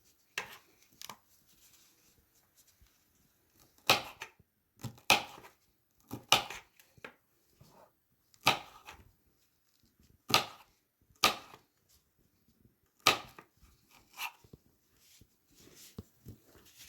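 Kitchen knife slicing an orange bell pepper into pieces: about ten sharp knocks of the blade coming down, spaced irregularly one to two seconds apart.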